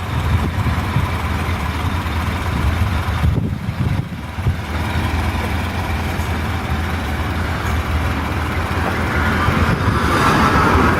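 1930 Model A delivery vehicle's engine running steadily at a low rumble, getting a little louder near the end.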